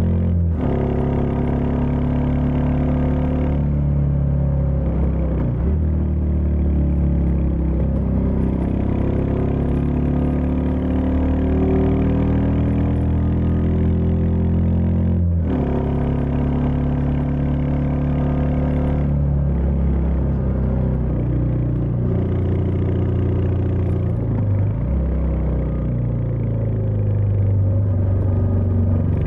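Royal Enfield Meteor 350's single-cylinder engine and exhaust running under way. The engine pitch steps up and down several times as the revs change, with two brief drop-outs, one just after the start and one about halfway, typical of gear changes.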